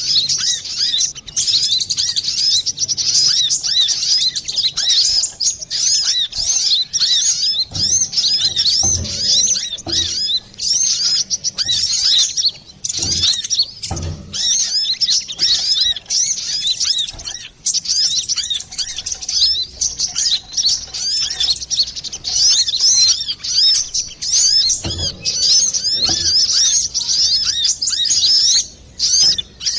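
Brown-throated sunbird (kolibri kelapa) singing a fast, busy, unbroken stream of high twittering chirps. A few brief low thumps are scattered through it.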